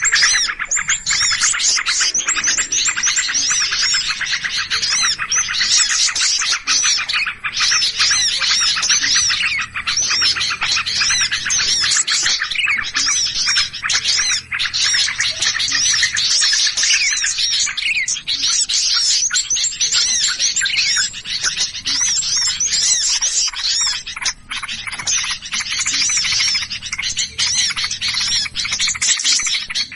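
Dense chorus of many small songbirds chirping and chattering at once, an agitated, noisy commotion ('ribut') of the kind Indonesian bird trappers play as a lure to draw small birds in. The calls are quick, high, overlapping chirps with no break.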